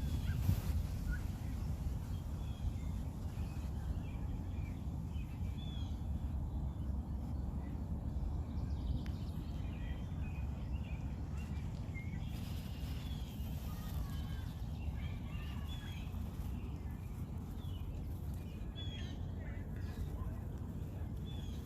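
Small birds chirping and calling on and off, with many short high chirps scattered throughout, over a steady low rumble.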